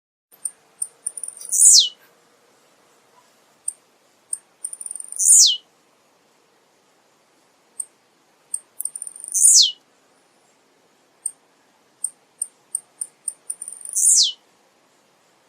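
Male blue-black grassquit (tiziu) singing its short song four times, about every four seconds: each song is a few quick high ticks followed by a sharp note sweeping steeply down in pitch.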